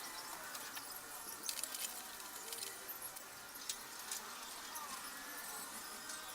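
Faint scattered clicks and light ticks over a steady hiss, with a small cluster of them a little after a second and a half in.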